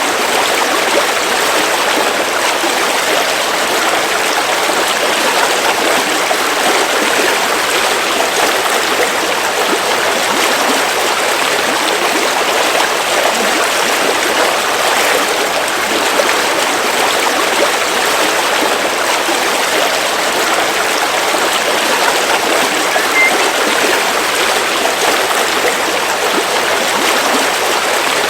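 A river flowing steadily, with an even, unbroken sound of running water.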